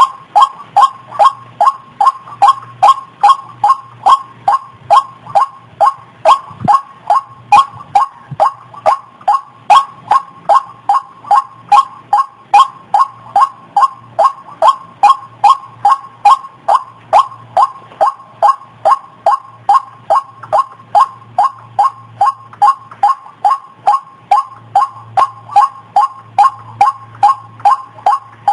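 White-breasted waterhen (ruak-ruak) calling a loud, rapidly repeated croaking note, about two and a half calls a second, on and on without a break.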